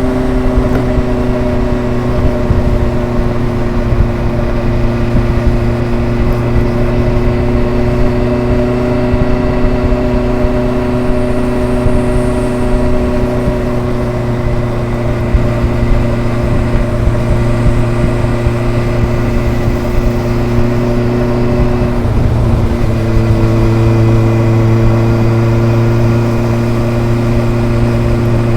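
Kawasaki ZRX motorcycle's inline four-cylinder engine and exhaust running steadily under way, a gentle four-cylinder exhaust note. Near the end the note breaks briefly, then settles a little lower and slightly louder.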